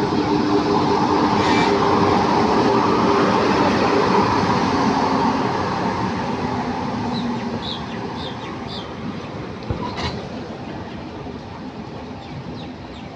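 Electric-hauled express train with LHB coaches rolling in along the platform. The rumble of wheels on rail is loudest in the first few seconds and fades as the coaches pass. A few short high squeaks come about two-thirds of the way through.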